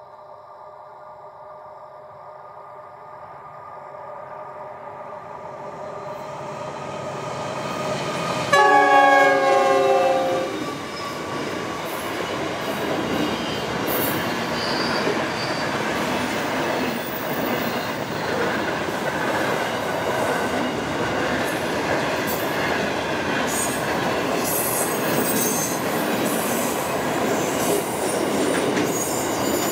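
Diesel freight train approaching and passing. About eight seconds in, the locomotive sounds a loud chord horn for about two seconds, its pitch sliding slightly down. Then comes the steady rumble and clatter of double-stacked container wagons rolling by, with occasional high wheel squeals.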